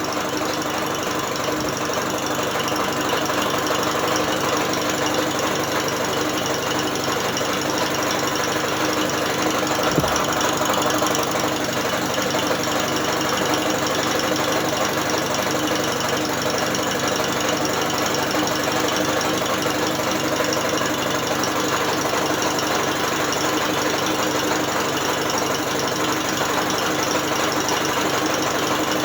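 British Seagull outboard motor turned over by an electric drill: the drill and the spinning engine and gear train run at a steady speed. A single short knock sounds about ten seconds in.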